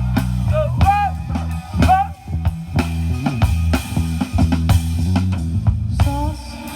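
Live rock band playing an instrumental passage: a guitar line with bent notes over bass and drums.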